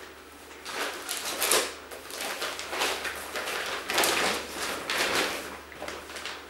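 Rustling and handling noises in several bursts, about a second each, as household things such as blankets are moved and pushed into a container.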